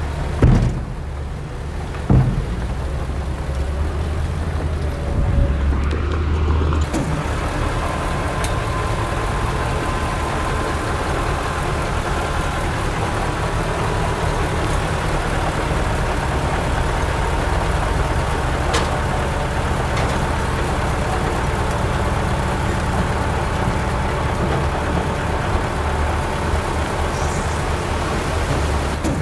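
Heavy diesel earthmoving machinery running steadily, with two sharp knocks in the first few seconds.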